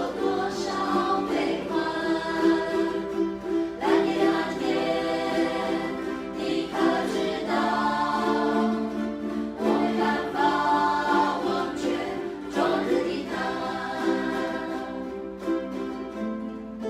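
Ukulele ensemble strumming while a group of voices sings together.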